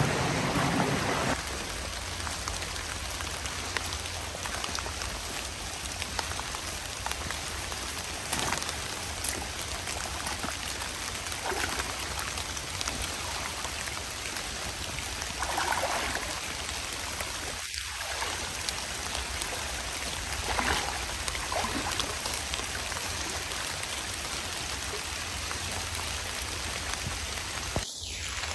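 Rain falling steadily, with drops pattering close by, over the steady rush of a mountain creek.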